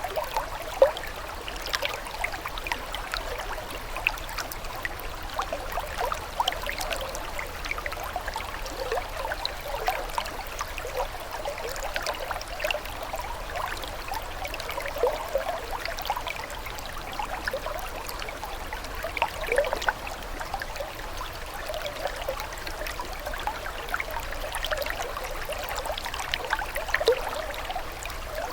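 A steady flow of trickling water with many small plinks and gurgles.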